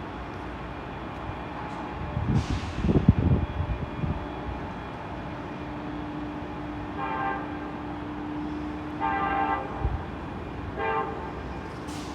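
A loud low rumble about two to four seconds in, then a train horn sounding two long blasts and a short one, the start of the long-long-short-long grade-crossing signal. A steady low hum runs underneath.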